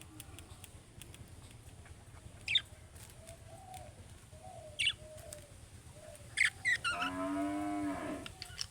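Budgerigars chirping: a few sharp, high, falling chirps over soft low chatter, then a louder, lower-pitched call lasting about a second near the end.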